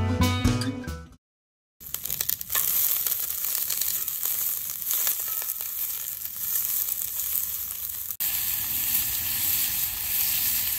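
Acoustic guitar music fades out in the first second. After a short gap, food sizzles in a cast-iron skillet over a campfire: first sliced peppers and onions being stirred with a wooden spoon, then, after a cut about eight seconds in, steaks. The sizzle is a steady hiss with scattered pops.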